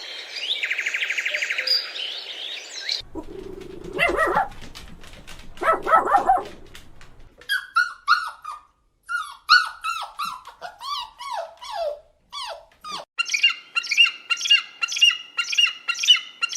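A run of short animal calls: a fast buzzing trill first, then two barks from a dog, then many quick downward-sliding chirps and a rapid string of repeated chirps from birds.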